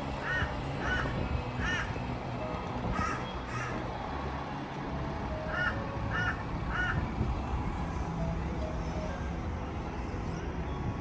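A crow cawing in short runs of two or three harsh calls, repeated several times, over a steady low background rumble.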